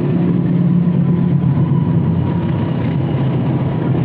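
Diesel locomotive of a passenger train running close by, a loud, steady low engine drone with rumbling noise over it.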